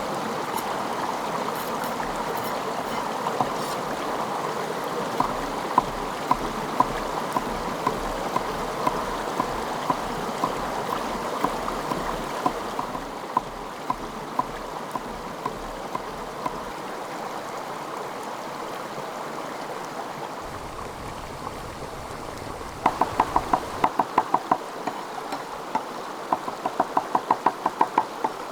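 A steady hiss of running water, like a stream. Light sharp taps come about two a second through the middle, and two quick runs of rapid taps come near the end.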